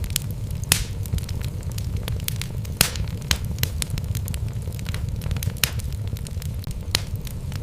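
Wood fire burning in a fireplace: a steady low rumble of the flames with irregular sharp crackles and pops from the logs, a few louder snaps among them.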